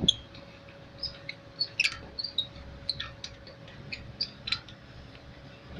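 Small birds chirping: short high-pitched chirps at irregular intervals, over a faint steady hum.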